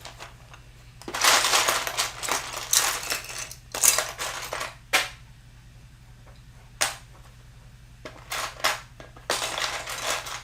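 Loose plastic building bricks rattling and clattering as a hand sifts through a pile of them, in two stretches of a few seconds with single clicks between, over a low steady hum.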